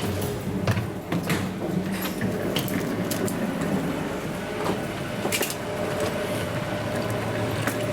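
Boarding noise around a Boeing 737: a steady hum under scattered knocks and clatter from passengers and their bags.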